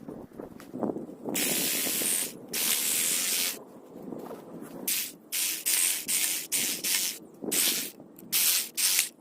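Sprayer hissing as it sprays liquid onto a gravestone: two long sprays of about a second each, then a quick run of short squirts.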